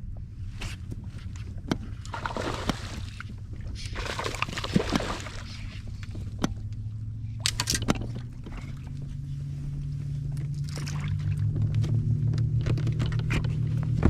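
Water sloshing and splashing around a kayak, with clicks and knocks from gear being handled aboard. A steady low hum runs underneath and grows louder in the second half.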